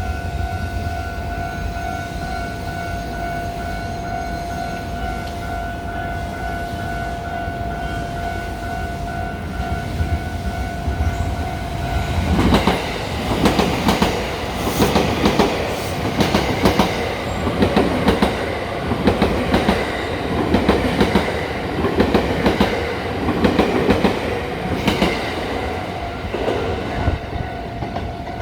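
Level-crossing warning bell ringing with a steady tone. About twelve seconds in, a 287-series electric limited express train passes close by over the crossing, its wheels clattering rhythmically over the rail joints car after car, and the warning tone carries on under it until near the end.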